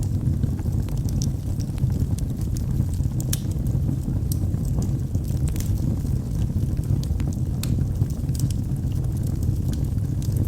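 Wood fire burning in a fireplace: a steady low rumble of the flames with scattered sharp crackles and pops from the logs throughout.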